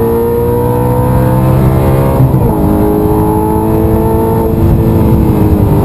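Audi R8 engine heard from inside the cabin, accelerating hard under full throttle with its pitch rising. It upshifts about two seconds in, the pitch dropping, then climbs again and shifts once more near the end.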